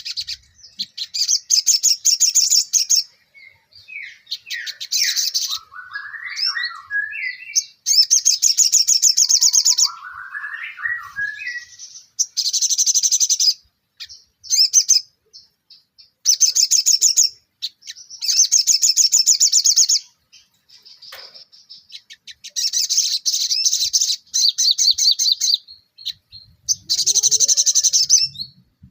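A sogon songbird singing its full repertoire: repeated bursts of rapid, high-pitched chattering notes about every two to four seconds, with lower, slower warbled phrases in between.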